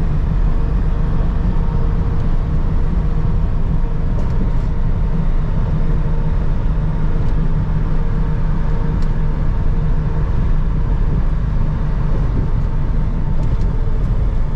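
Semi truck's diesel engine running steadily, a loud, even low drone with a faint steady hum over it.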